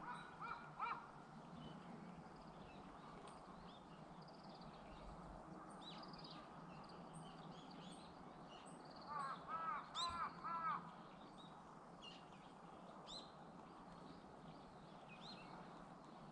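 Birds calling outdoors: a short run of repeated, harsh, pitched calls right at the start and again, louder, about nine seconds in, with small birds chirping high and briefly throughout.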